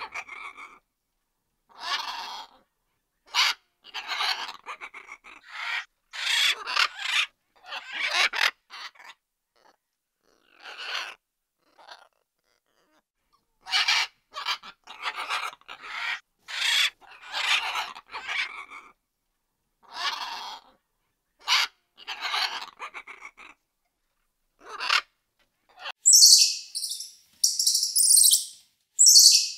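Bird calls: a string of short separate calls with silent gaps between them. In the last few seconds come quicker, higher-pitched chirps.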